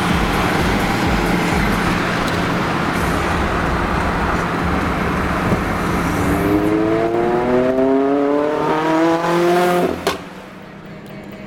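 Lotus Exige Cup 260's supercharged four-cylinder engine through an aftermarket exhaust, running loud under power, then its note climbing steadily in pitch for about four seconds as it accelerates. About ten seconds in the engine note cuts off suddenly with a single sharp crack, leaving a much quieter steady engine sound.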